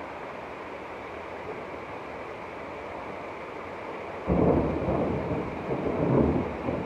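Steady rushing rain noise, then a loud low rumble of thunder comes in suddenly about four seconds in, swells twice and fades after about two and a half seconds.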